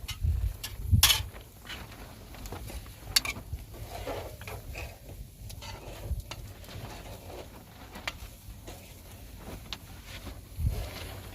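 Scattered clicks and knocks of objects being handled, with a few low thumps at the start and near the end.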